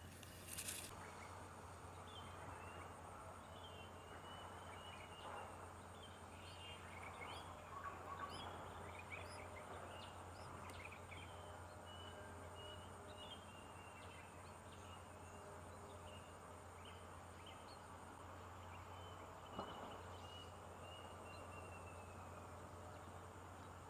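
Faint, scattered high chirps and thin calls from birds over a steady low hum, with a sharp click near the start and another about twenty seconds in.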